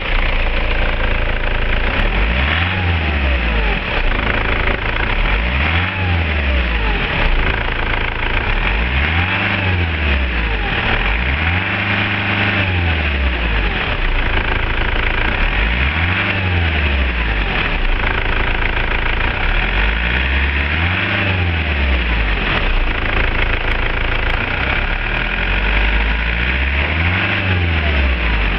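Mercedes-Benz OM 611 2.2 CDI four-cylinder diesel engine running just after a start, idling and revved up about seven times, each time rising in pitch and falling back to idle.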